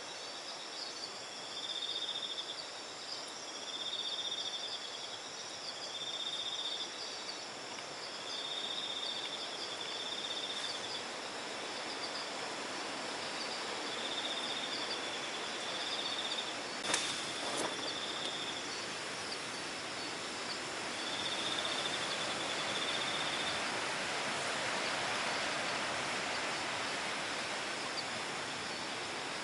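Night insects trilling in repeated short bouts over a steady rush of strong wind that swells and eases. One sharp click about halfway through.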